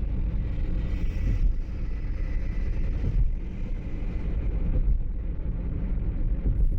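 Steady low rumble of a moving vehicle, with a faint thin whine above it.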